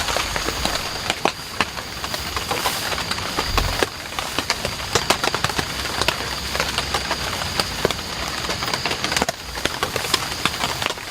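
Heavy rain falling, with many irregular sharp taps of drops striking close by.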